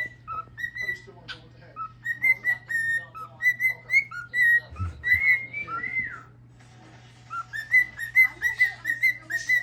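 Cockatiel whistling a song: a string of short, quick whistled notes, pausing for about a second past the middle before starting again.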